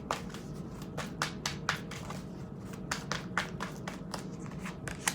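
Tarot cards being shuffled and drawn by hand: a string of irregular light slaps and taps of cards against each other and the table.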